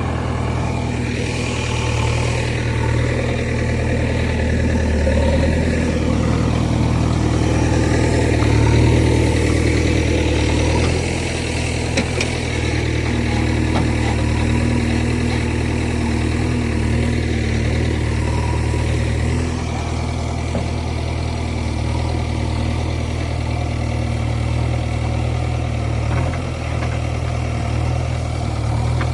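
Heavy vehicle engine running steadily without a break, a little fuller in the first ten seconds, with a short click about twelve seconds in.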